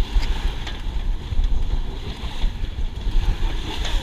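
Wind buffeting the microphone in heavy, gusting rumbles aboard a sailboat under sail, over a steady hiss of water washing along the hull with a few small splashes.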